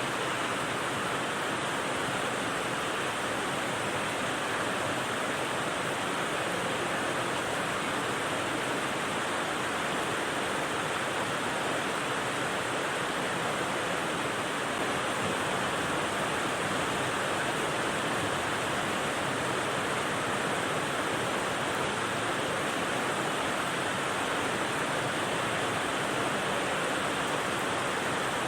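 Steady rain noise, an even unbroken hiss with no separate drops or changes.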